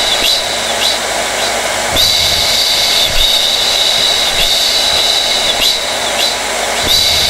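Hair dryer running steadily: a loud rush of blown air with a high motor whine that wavers and dips briefly every second or so.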